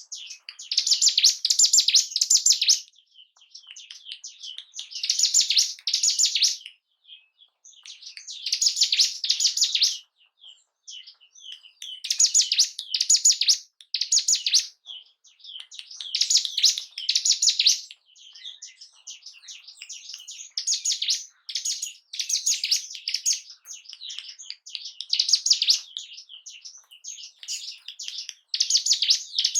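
Ciblek gunung, a mountain prinia, singing: loud, fast bursts of high chirping notes a second or two long, repeated every few seconds, with softer twittering between the phrases.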